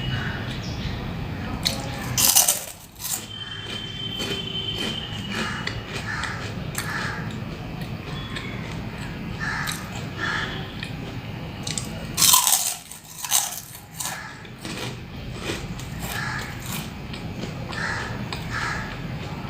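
Close-miked biting and chewing of crunchy fried snacks: two loud crunching bites, about two seconds in and again about twelve seconds in, with chewing between.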